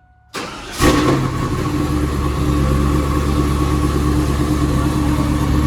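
Supercharged Chevrolet Camaro Z28 V8 cranking and firing on a cold start, catching just under a second in with a sudden loud burst, then settling into a steady idle.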